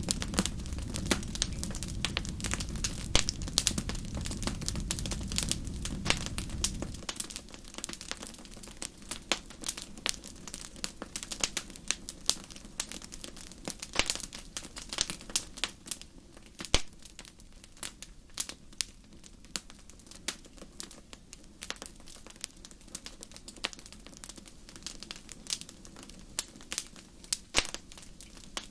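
Wood fire in a fireplace crackling, with frequent sharp pops and snaps of varying loudness. A low rumble under the crackle stops about seven seconds in, leaving the pops over a quieter background.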